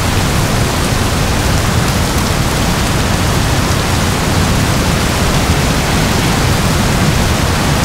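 Heavy rain falling steadily, a dense, even hiss with a strong low rumble underneath.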